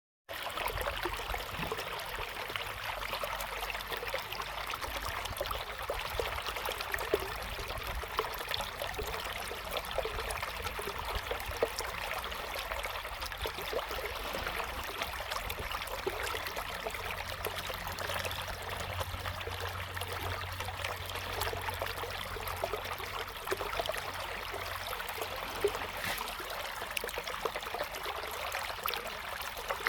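River water flowing over stones, a steady babbling rush with small splashes and trickles.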